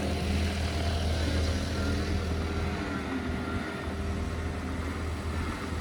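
John Deere 325G compact track loader's diesel engine running steadily, an even low hum with no clear revving.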